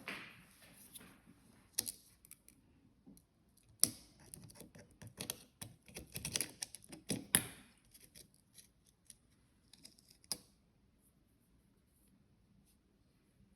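Handling noise: irregular clicks, taps and short rustles of small objects being handled, busiest in the middle and dying away about three-quarters of the way through.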